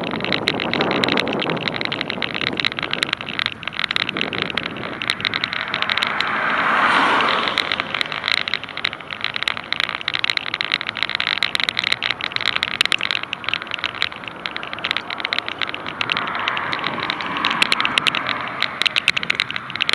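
Steady hiss of riding on a wet road in the rain, dotted with many small crackling clicks, and a car swishing past on the wet road about seven seconds in.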